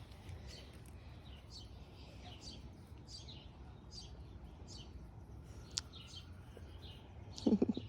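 Small birds chirping: short, high, down-sliding chirps repeating about twice a second over a low steady background rumble.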